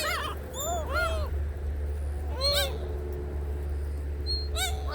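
A flock of gulls calling, a few separate mewing calls that rise and fall, over a steady low rumble.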